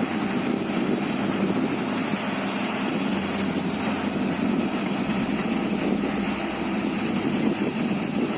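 An engine running steadily: a low, even drone that does not change over the few seconds.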